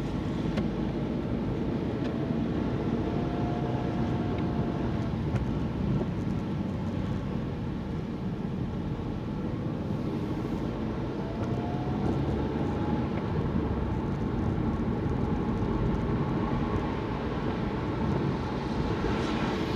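Steady car engine and road noise heard from inside the cabin while driving, with the engine note rising faintly twice.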